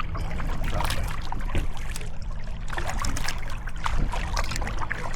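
Sea kayak paddling: the blades dip and splash, with water trickling off them, over a steady low rumble.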